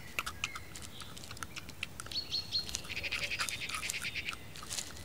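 Small woodland birds chirping: a few short high notes about two seconds in, then a rapid high trill a second later. Underneath runs soft ticking and rustling from a hedgehog foraging in grass and leaf litter.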